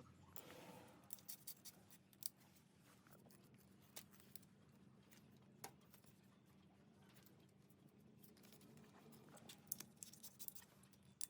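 Near silence: faint room tone with a steady low hum and a scattering of small clicks and light scrapes.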